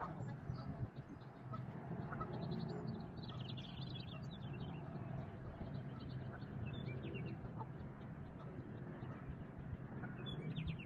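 Birds chirping outdoors in several quick runs of short high notes, over a steady low background hum.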